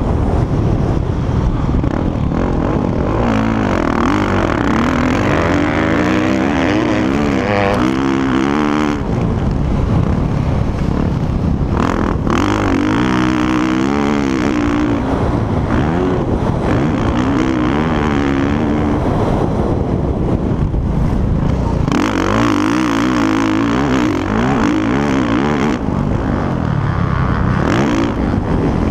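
Motocross bike engines revving up and down, their pitch rising and falling again and again, with several bikes often heard at once.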